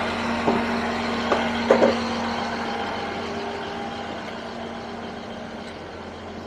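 Class 158 diesel multiple unit idling at the platform: a steady low engine hum with a held tone, slowly growing fainter. A few short pitched chirps sound in the first two seconds.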